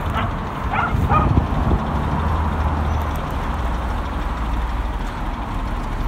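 Mercedes-Benz W124 E280's 2.8-litre straight-six engine running at idle, a steady low hum. The owner reports a knock from the front of the engine and a hunting idle, and suspects worn bearings.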